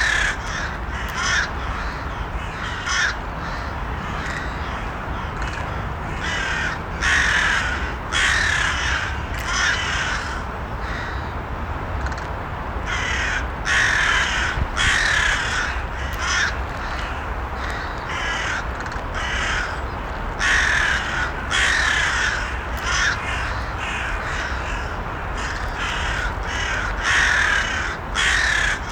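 Crows cawing repeatedly, in single calls and quick runs of two or three, over a steady low background hiss.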